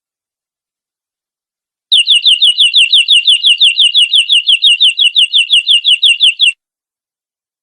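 Domestic canary singing a fast trill of identical falling whistled notes, about seven a second, starting about two seconds in and stopping sharply about two and a half seconds later. It is a canary bait song (pancingan) meant to set other canaries singing.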